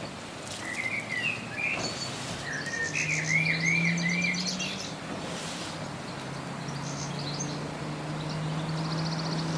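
Garden songbirds singing: a series of short warbling and trilling phrases, over a steady low hum.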